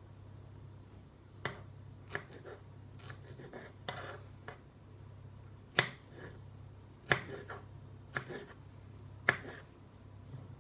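A handful of sharp, irregular taps and knocks, about seven of them, from small objects being handled, over a steady low hum.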